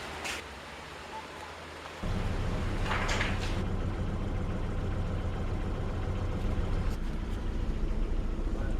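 Steady low rumble of a boat under way, with hiss over it, starting suddenly about two seconds in; a short hiss about a second later.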